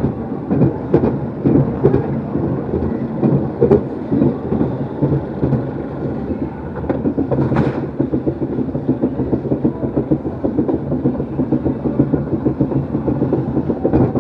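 Amusement-ride cars rumbling and rattling along a track, a continuous fast clatter with a few sharper clicks.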